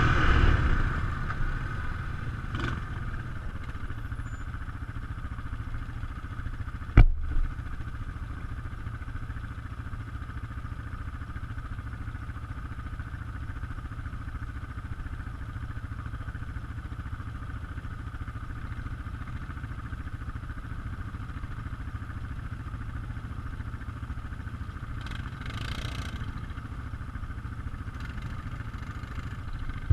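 ATV engine running steadily at low revs, with one sharp knock about seven seconds in.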